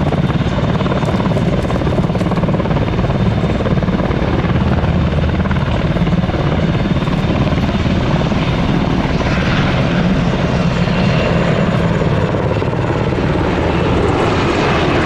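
Military helicopter's rotor chopping steadily, with its turbine running. A brighter hiss joins about nine seconds in.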